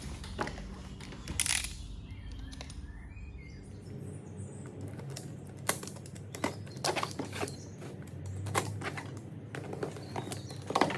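Cardboard box and its packaging being handled and opened: scattered clicks and knocks, with a short scraping burst about a second and a half in.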